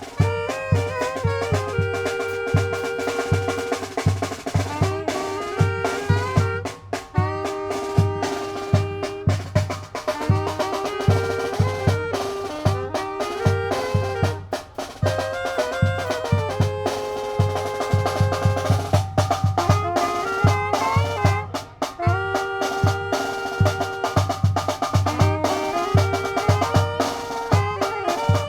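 Zacatecas tamborazo band music: brass play a melody in harmony over the steady beat of the tambora bass drum and snare drum.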